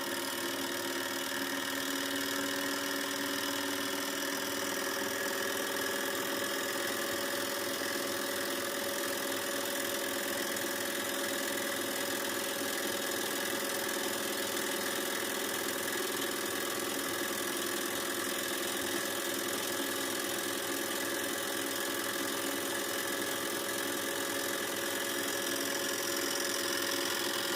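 Böhm model hot-air Stirling engine, heated by an alcohol burner, running steadily: an even mechanical whirr with a fast, fine clatter from its moving parts.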